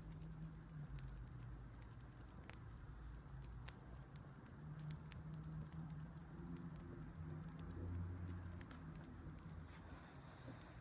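Faint crackling of a wood fire: irregular small pops and snaps over a low steady rumble.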